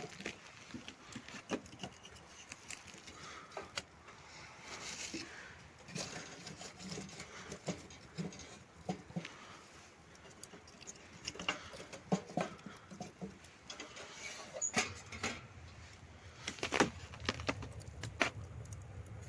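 Irregular small clicks, knocks and rustling of objects being handled at close range. A low steady rumble comes in about fifteen seconds in.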